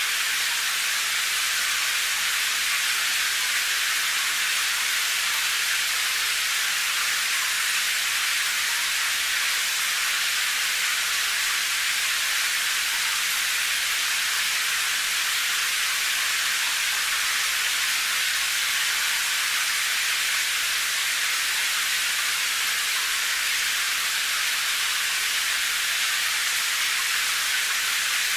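Steady rain: an even, high-pitched hiss that does not change.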